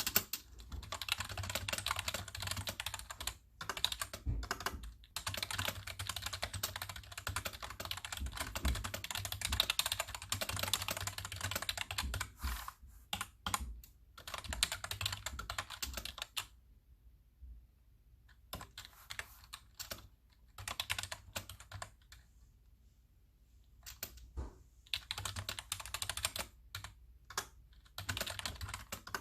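Fast touch-typing on a computer keyboard: dense runs of key clicks broken by short breaks, with two longer pauses of about two seconds past the middle.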